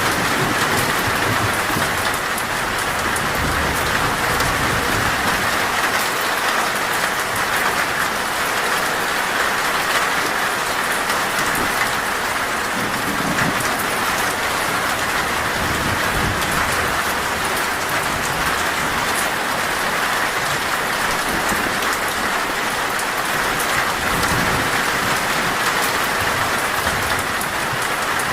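Heavy rain drumming steadily on a metal roof, with low rumbles of thunder swelling now and then.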